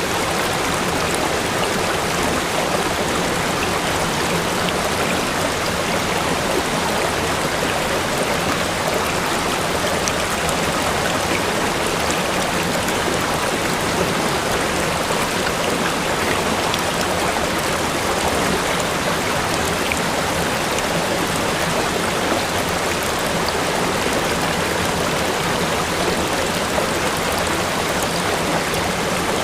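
Steady, loud rush of water pouring over a waterfall, unbroken throughout.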